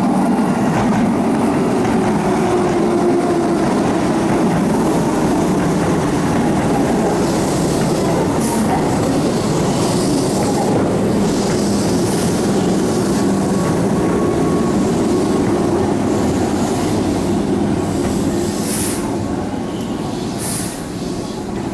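Keihan electric commuter train running into the station and along the platform: steady rolling noise with wheels squealing, and short high hissing bursts around the middle and near the end.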